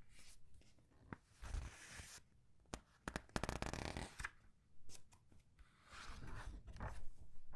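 Comic book pages being turned and squeezed: a series of irregular paper rustles and crinkles, with a quick run of sharp crackles around three to four seconds in.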